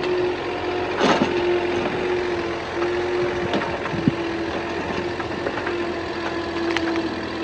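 An engine running steadily with a constant hum, broken by a few sharp knocks or clanks.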